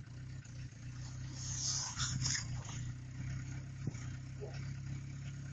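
Citroën ZX TurboD diesel engine idling steadily soon after a cold start at −20 °C.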